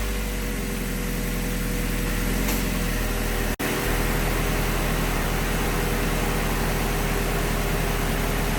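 LS-series V8 idling steadily just after a cold start, warming up to heat-cycle a newly refilled cooling system. The sound cuts out for a split second about three and a half seconds in.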